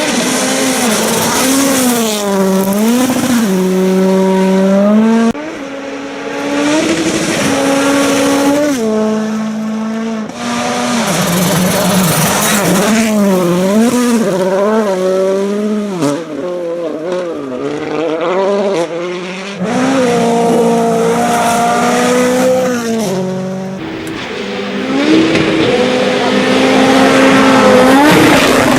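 Racing engines of off-road race vehicles revving hard, their pitch climbing and dropping again and again with throttle and gear changes, in a string of short clips that cut off abruptly one into the next.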